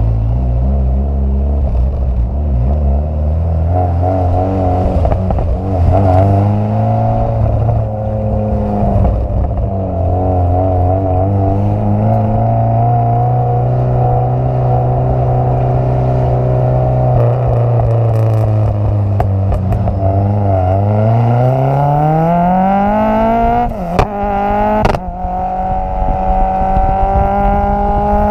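Renault Clio Cup race car's engine and exhaust, close up. It runs at steady, moderate revs for most of the time, then accelerates hard with a steeply rising pitch. Two quick gear changes about a second apart break the climb, and it pulls on at higher revs.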